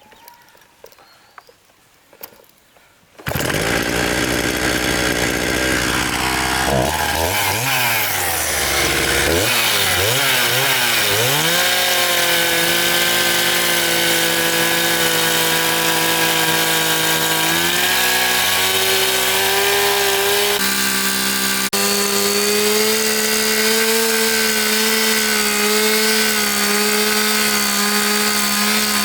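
A small motor starts suddenly about three seconds in and runs loudly. Its pitch swings up and down for several seconds, then holds steady with a couple of small steps.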